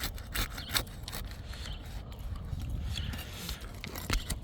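Asphalt shingles being pried up to break their sealant strips: a few sharp clicks and knocks, with scraping and crackling of the shingles in between.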